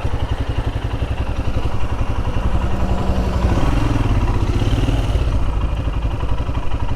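Royal Enfield Himalayan's single-cylinder engine running under way, its pulses steady. The pitch rises a little partway through.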